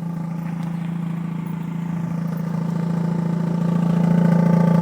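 2004 Mazda RX-8's two-rotor Renesis rotary engine idling with a steady hum, growing gradually louder over the first four seconds.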